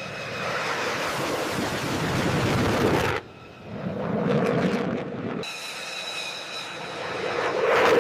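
Jet aircraft engine noise: a steady rushing sound with a high whine over it. It changes abruptly about three seconds in and again about five and a half seconds in.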